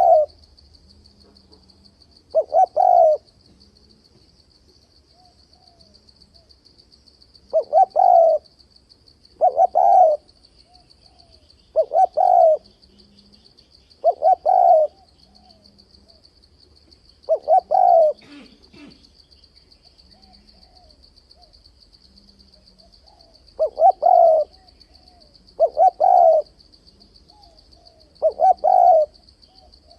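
Spotted dove cooing: short loud phrases of a few notes, repeated every couple of seconds with two longer pauses, some with soft low notes between. A faint steady insect trill runs underneath.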